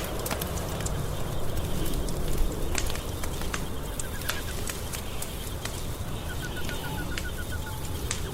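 Wood fire crackling in a fireplace: irregular sharp pops over a steady low rumble. A faint, rapid high chirping trill comes in about four seconds in and again about six and a half seconds in.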